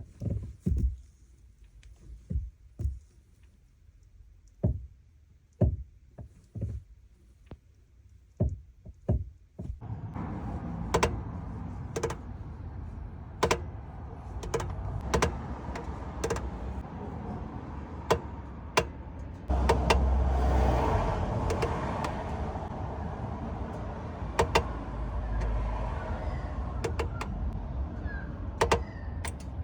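Sharp, irregular knocks from a 2022 Suzuki Jimny's clutch, the clutch noise fault. About ten seconds in, the engine starts running underneath as a steady low drone, and the knocks go on over it.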